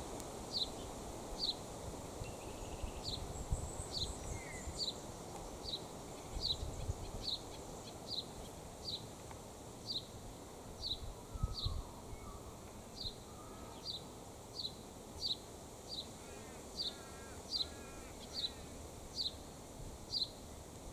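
An animal repeating a short, high, falling chirp at a steady rate of about one and a half chirps a second, over a low wind rumble.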